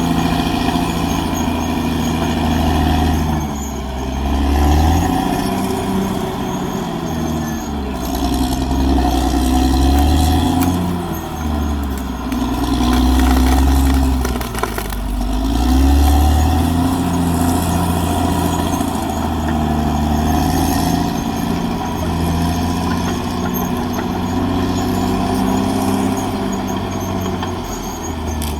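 Caterpillar D6R XL bulldozer's diesel engine running hard, its pitch dipping and climbing back several times over the stretch.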